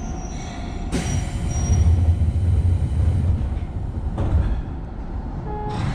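Izuhakone Railway Daiyuzan Line electric train running: a steady low rumble of wheels and motors, with sharp clacks about a second in, at about four seconds and again near the end.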